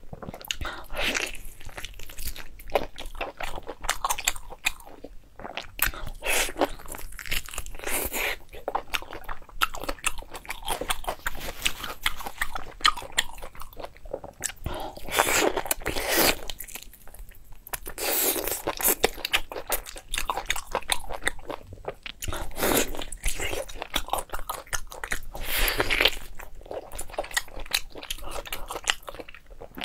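Close-miked biting and chewing of saucy braised meat on the bone, coming in repeated bursts of wet crunches and chews with short pauses between them.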